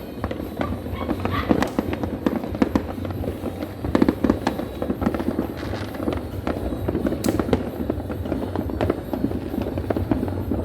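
New Year fireworks and firecrackers going off without a break: a dense, irregular crackle of many overlapping bangs and pops, some louder cracks standing out, part of a barrage that has run unbroken for about eleven minutes.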